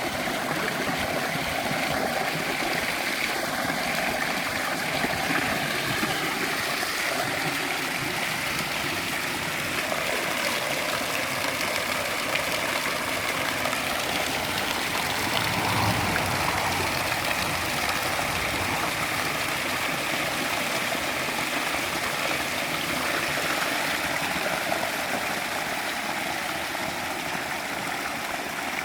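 Water running and splashing steadily over a built rock waterfall.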